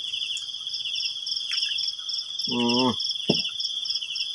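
Night insects, crickets among them, trilling in a steady high chorus. A second insect starts pulsing about four times a second about a second in.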